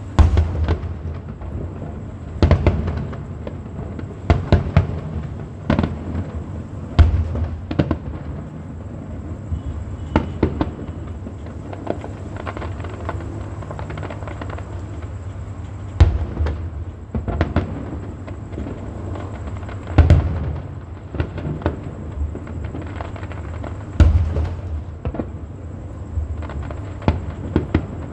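Fireworks display: sharp bangs and deep booms at irregular intervals every few seconds, some coming in quick clusters.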